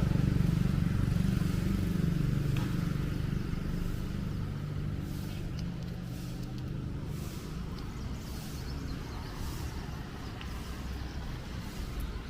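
A motor vehicle's engine rumble passing and fading away over the first few seconds, leaving a low traffic hum. In the second half, soft footsteps on pavement fall about once a second.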